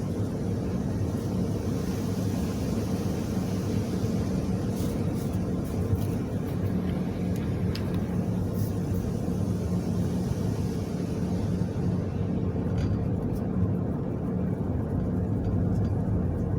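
Steady engine and tyre rumble heard inside the cabin of a moving car, with a few faint ticks now and then.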